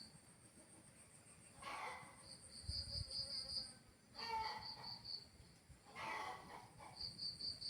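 Insects chirping in short pulsed trills, about five pulses a second, over a fainter high continuous pulsing, with a lower animal call repeating about every two seconds.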